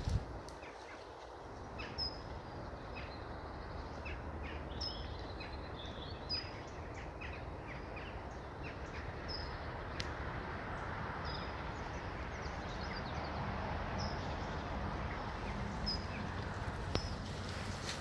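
Short high bird chirps every couple of seconds over a steady outdoor background noise.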